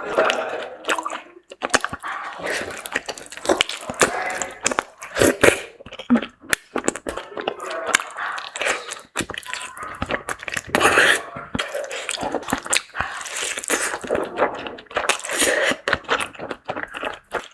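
Close-miked eating sounds: wet chewing and mouth smacking on saucy seafood, with many quick clicks, crunches and squishes coming irregularly.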